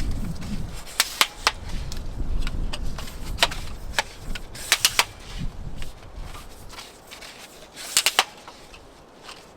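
Sharp clicks and knocks of tripod parts being handled while it is cleaned, some in quick pairs, over a low rumble that dies away in the first few seconds.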